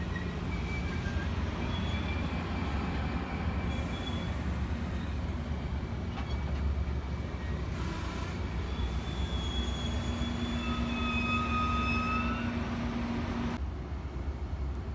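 Virginia Railway Express commuter train rolling by: a steady low rumble with thin, high wheel squeals coming and going. A steady low hum joins about ten seconds in, and the higher sounds cut off suddenly near the end.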